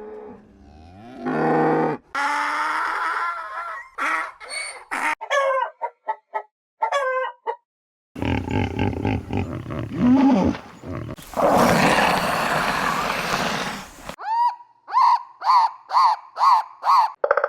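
A run of short, spliced recordings of different wild animal calls, cut abruptly one after another: pitched cries and chirping calls in the first half, a long harsh, noisy call around the middle, then a quick series of about six calls near the end.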